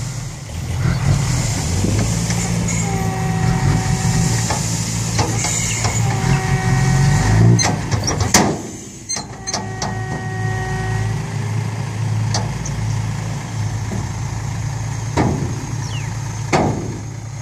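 Six-wheel dump truck engine running steadily, with a pitched whine that comes and goes three times, each about a second and a half long. A few sharp hissing or knocking strokes cut through, the loudest about eight seconds in.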